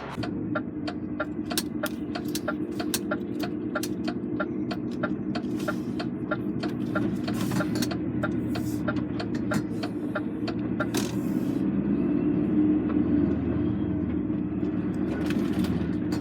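Lorry's diesel engine running, heard from inside the cab, with an even ticking about three times a second that stops about two-thirds of the way through, like the cab's turn-signal indicator.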